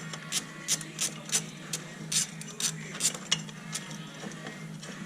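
Metal hand tools clicking and clinking irregularly, about two or three sharp ticks a second, over a steady low hum.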